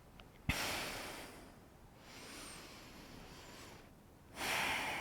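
A person breathing audibly through the nose: a long exhale starting about half a second in, a quieter inhale, then another long exhale beginning near the end.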